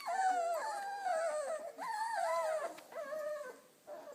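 Four-week-old Bernedoodle puppies whining: a run of high, wavering cries that fades out near the end.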